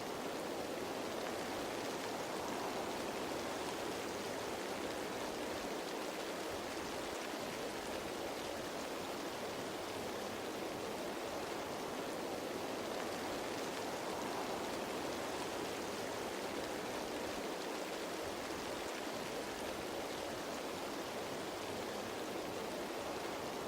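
Steady rain falling on leaves, a dense even patter of raindrops with no breaks or changes.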